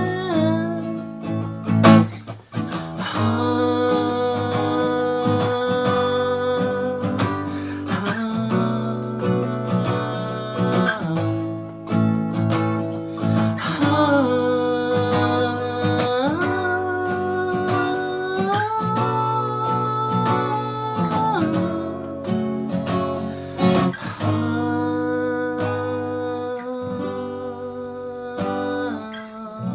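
Acoustic guitar music: an instrumental passage of strummed and picked chords that changes every few seconds and eases off in level near the end.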